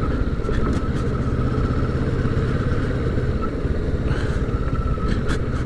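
Motorcycle riding at a steady, moderate pace, heard from the rider's seat: a steady engine hum under constant wind and road noise, the engine note dropping back slightly a little past the middle.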